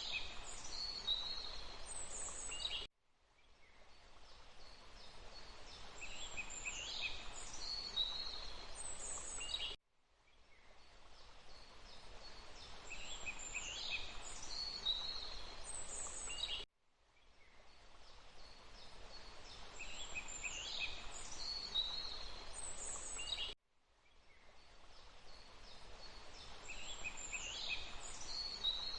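Forest ambience of small birds chirping over a steady rushing hiss of water. It is a short loop, about seven seconds long, that repeats four times, each time cutting off abruptly into a brief silence and fading back in.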